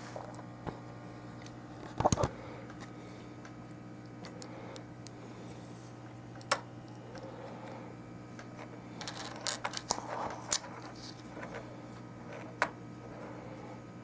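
Small parts handled on a workbench: a few scattered light clicks and clinks, with a short cluster of them about two-thirds of the way through, over a steady low hum.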